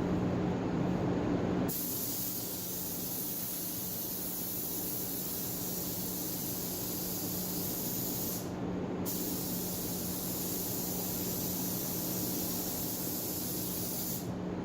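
DeVilbiss GTI Pro Lite paint spray gun hissing as it sprays, switching on about two seconds in, cutting out briefly past the middle, then running again until just before the end. A steady low hum runs underneath.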